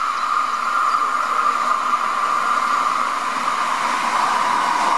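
Electric train running close by: a loud, steady whirring hiss with a high whine that drifts slowly lower in pitch.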